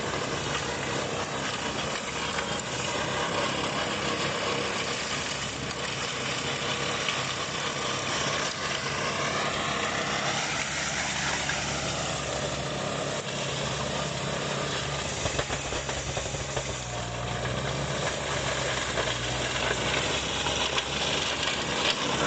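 Engine of a remote-controlled forestry mulcher running steadily, its pitch rising and falling at times as it works.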